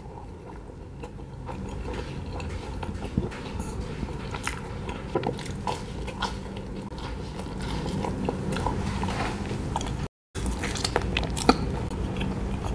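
A person biting into and chewing a slice of durian cheese pizza, close to the microphone: a run of irregular small clicks of mouth and food. There is a split-second gap of silence a little after ten seconds in.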